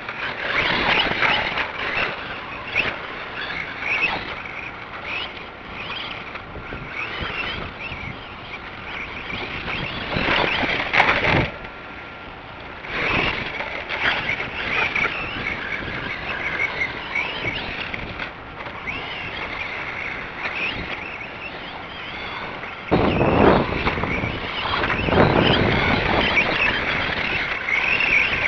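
XL 9115 (GPToys S911) 1/12-scale 2WD RC monster truck running: its brushed electric motor and gears whine, rising and falling with the throttle, along with tyre noise. There is a short lull about halfway through and a louder stretch near the end.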